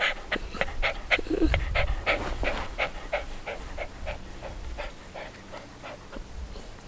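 A dog panting rapidly and steadily, about three breaths a second, growing somewhat fainter toward the end.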